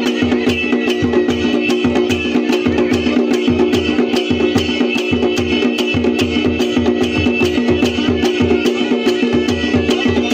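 Kumaoni chhaliya band music: drums beating a fast, steady rhythm under a sustained drone and a high melody line.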